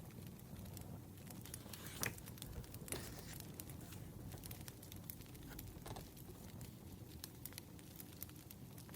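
Wood fire crackling: irregular small pops and snaps over a low steady rumble, with two louder pops about two and three seconds in.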